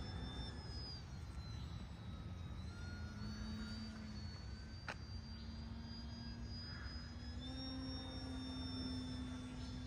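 Distant RC foam airplane's motor and propeller whining in flight, its pitch sliding down and back up as it flies about, over low wind rumble on the microphone. One sharp click about halfway through.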